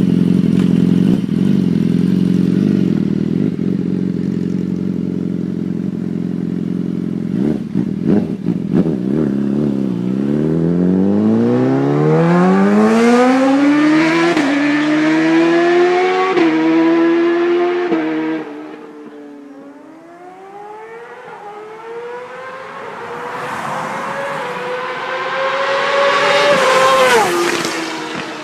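BMW S1000 inline-four engine idling steadily, then accelerating hard through several gears, its pitch climbing with a short break at each upshift. Near the end it rises again to its loudest and drops sharply in pitch as the bike passes by.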